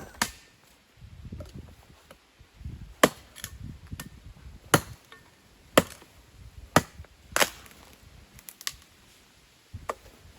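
Dry dead wood being broken up for firewood: a run of sharp snapping cracks, roughly one a second, with duller handling noises between them.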